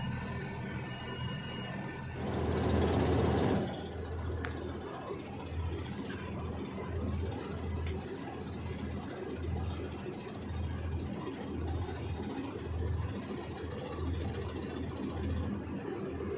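Hyundai HX 220 HD excavator's diesel engine running with a low, regular throb, about one and a half pulses a second. About two seconds in, a louder rushing noise lasts a second and a half.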